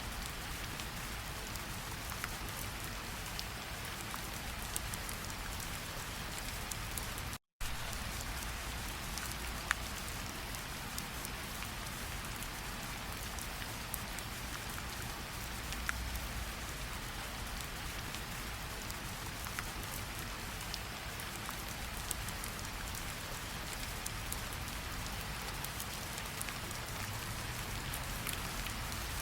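Steady tropical rain falling on leaves, damp ground and standing water, with scattered louder drops ticking close by. The sound cuts out completely for a split second about seven seconds in.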